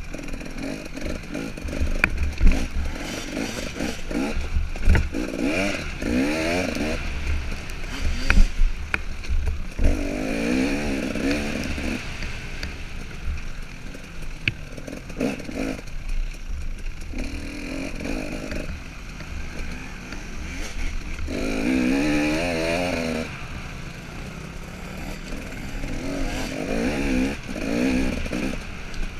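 KTM 300 XC two-stroke single-cylinder dirt bike engine revving up and easing off again and again as the bike is ridden along the trail, over a steady low rumble, with a few sharp knocks.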